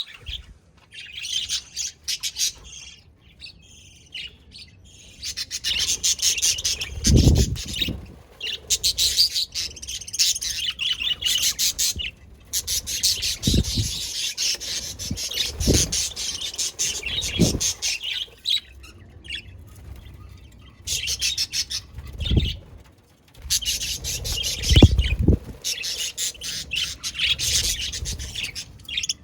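Budgies (budgerigars) chattering and chirping in rapid, busy bursts with short pauses in between. A few low thumps come through the chatter.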